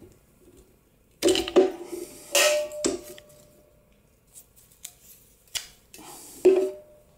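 Metal parts of an exhaust manifold and its studs clinking and clanking as they are handled on a workbench: three separate bursts of knocks, two of them with a brief metallic ring.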